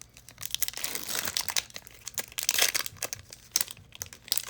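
Trading-card pack wrapper crinkling and cards being handled: a run of quick clicks and rustles, with louder crinkling bursts about a second in and again near two and a half seconds.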